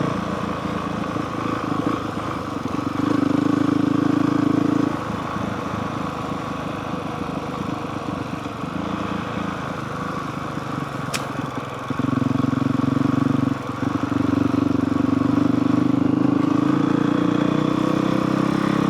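Honda CRF450R dirt bike's single-cylinder four-stroke engine running under way, louder on the throttle for a couple of seconds early on and again through most of the last third, lower while coasting in between. A single sharp tick a little past the middle.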